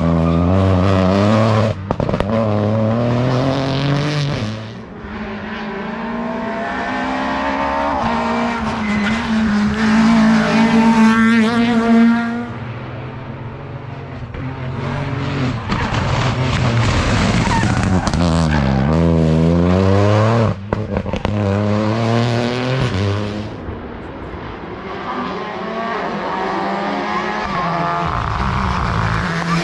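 Modern rally cars at full attack on a special stage, engines revving hard and climbing through the gears, with sudden brief cuts as they shift or lift. The engine pitch rises and falls as each of several cars approaches and passes, with some tyre squeal.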